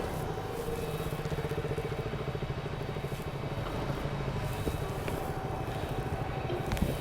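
Motorcycle engine running steadily at low revs, with a single sharp knock near the end.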